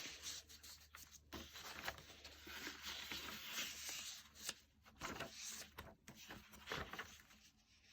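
Faint rustling and soft handling of the paper pages of a handmade junk journal as they are turned and moved, with a few small taps and scrapes.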